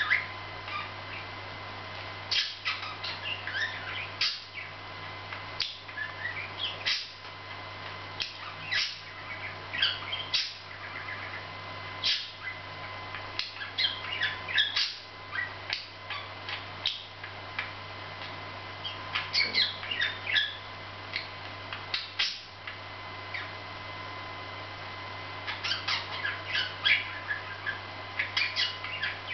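Pet budgerigars chirping and chattering in short, scattered bursts, with a few quieter stretches between.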